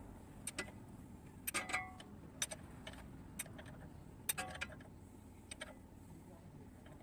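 Scattered light metallic clicks and taps, about half a dozen at uneven intervals, as hand tools work on engine parts during a connecting-rod bearing job.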